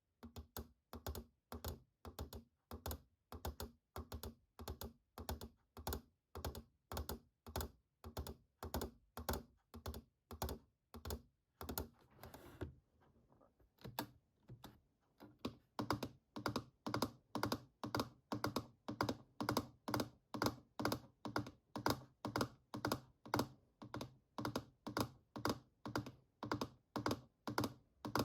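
Fingers tapping computer keyboard keys in a slow, even rhythm of about two or three clicks a second, pausing briefly about halfway through.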